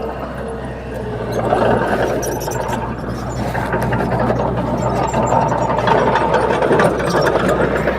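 Crawler bulldozer's diesel engine running steadily, with scattered clicks and clanks over the drone. It gets louder about a second and a half in.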